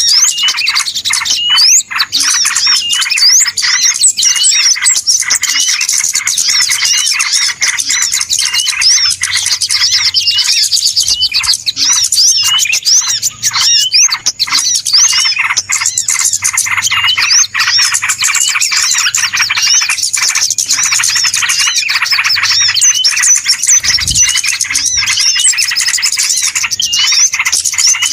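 Many small birds chirping and twittering at once in a dense, loud, unbroken chorus of rapid, overlapping short calls, used as a bird-lure call.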